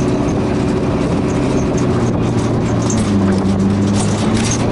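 A car's engine and road noise while driving, with the engine note shifting about three seconds in.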